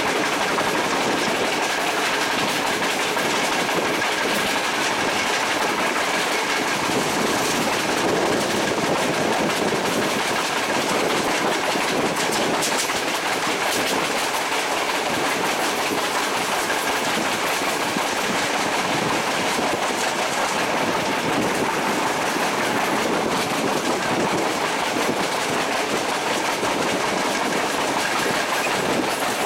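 A train running along the track: steady wheel-on-rail rumble with no change in level.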